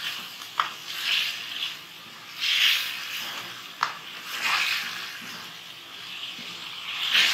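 Chicken frying in a wok, sizzling in swells as a wooden spatula stirs and turns it, with two sharp clicks of the spatula against the pan.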